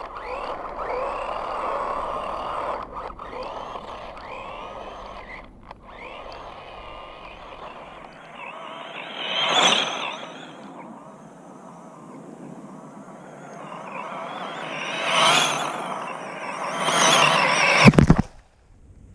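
A 5-inch FPV freestyle quadcopter's brushless motors and three-blade props whining, their pitch sliding up and down with the throttle. There are three louder surges, about ten, fifteen and seventeen seconds in, and the sound cuts off sharply near the end.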